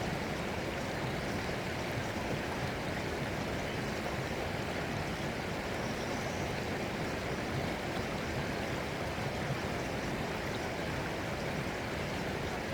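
Water flowing steadily, like a stream, a continuous rushing sound that does not rise or fall.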